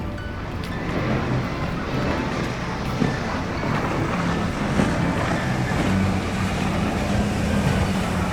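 Low, steady engine hum under a rushing noise of wind and water, growing louder about a second in.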